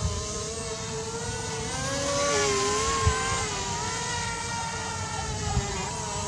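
The three brushless motors and propellers of an XK X450 Aviator RC VTOL plane in flight, a steady buzzing whine that wavers up and down in pitch as the throttle changes. Three brief low thumps come through, near the start, about halfway and near the end.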